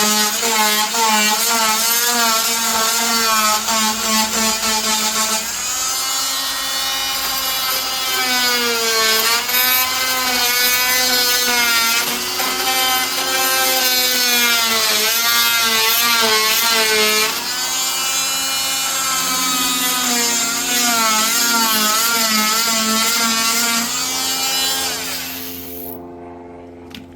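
Electric power saw cutting into wood subfloor. The motor's pitch rises and sags as the blade loads up and frees, then it winds down and stops near the end.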